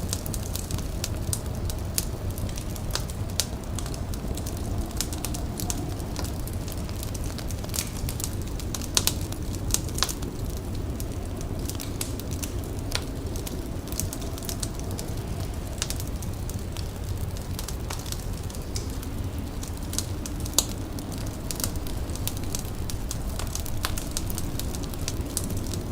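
An indoor fire crackling, with irregular sharp pops and a few louder snaps over a steady low rumble.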